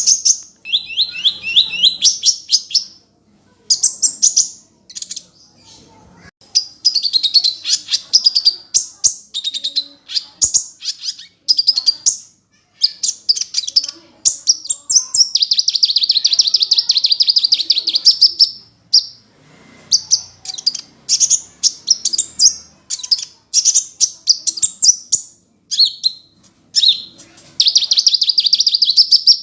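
Sunbird (the 'kolibri' of Indonesian bird keepers) singing vigorously: rapid, high chattering trills and chirps in quick bursts, with a long unbroken trill about halfway through and another near the end.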